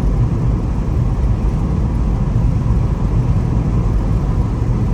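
Steady low rumble of engine and road noise inside a Jeep's cabin while driving, a little noisy.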